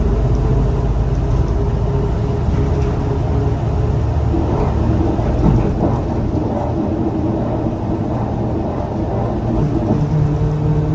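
Scania L94UA bus running: steady engine tones at first give way to a rumbly mix of engine, road and body noise through the middle, and the engine tones come back strongly near the end as it pulls again.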